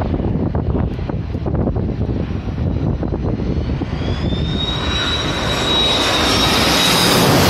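Airliner approaching low overhead, its engine whine coming in about halfway through and growing louder, over a steady low rumble of wind buffeting the microphone.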